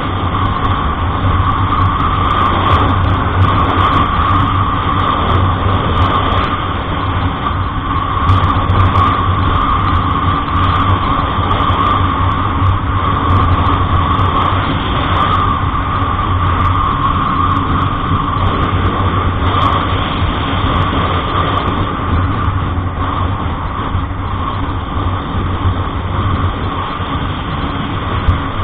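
Truck driving along: steady engine drone and road noise with no break.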